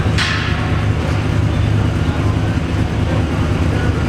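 V8 muscle car exhaust running steadily at idle: a loud, low, uneven note with no revving. A short hiss sounds just after the start.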